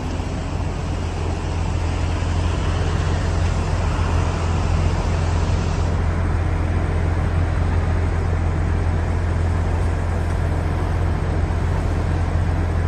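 Steady low drone of a motor vehicle running, with an even rushing noise over it; the higher hiss drops away about six seconds in.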